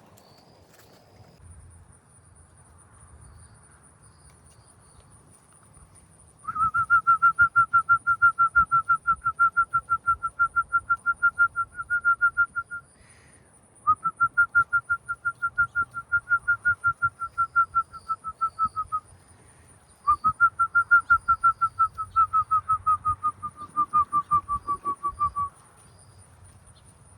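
A person whistling a bird call close by: three long trilled runs of rapid whistled notes at one steady pitch, about four or five notes a second, each run lasting several seconds, the last one sliding slightly lower at its end. The whistling is meant to call a bird in.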